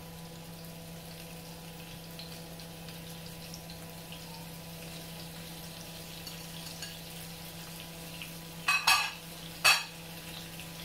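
Carrots and parsnips frying in oil in a pan: a faint, steady sizzle and crackle over a steady hum. Near the end come two sharp knocks, a little under a second apart.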